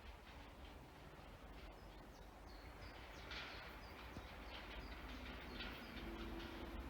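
Birds chirping in short repeated calls over a faint, steady low rumble.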